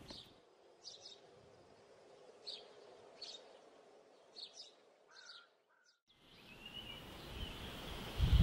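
Birds chirping: a handful of short, high chirps spaced a second or so apart over faint background hiss. About six seconds in the sound cuts out briefly, then outdoor background noise with birdsong rises.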